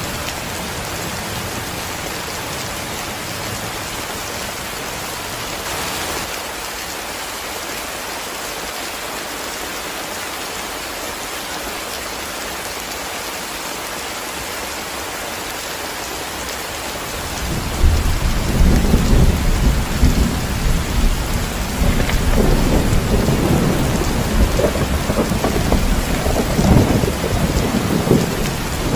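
Heavy rain falling in a steady hiss. A little over halfway through, a long rolling rumble of thunder sets in and keeps on, louder than the rain.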